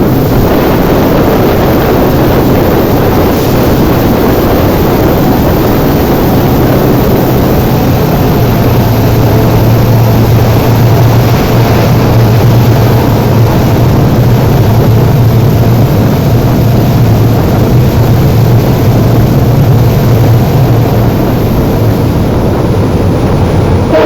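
Indian Railways WDP4D diesel locomotive's two-stroke EMD engine giving a loud, steady low hum over the rush of the running train. The hum grows stronger about a third of the way in and eases a little near the end.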